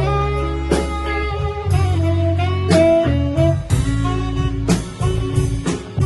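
Live band playing a blues-jazz number: a melodic guitar line with saxophone over a sustained bass and a drum kit, with a sharp drum hit about once a second.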